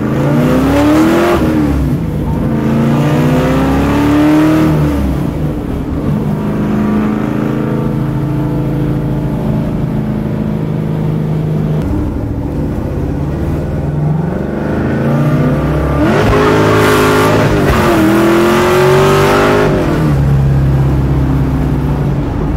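A 400-horsepower Ford 302 small-block V8 in a 1964½ Mustang, heard from inside the car, accelerating through the gears. The revs climb, drop at an upshift, climb again and then settle to a steady cruise. About fifteen seconds in it pulls through two more gears the same way.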